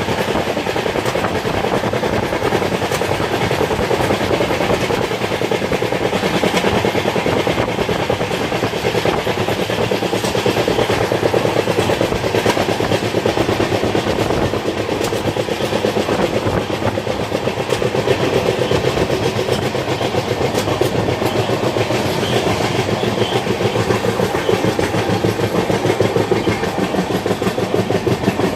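Train running steadily, heard from on board, with the wheels clattering over the rails throughout.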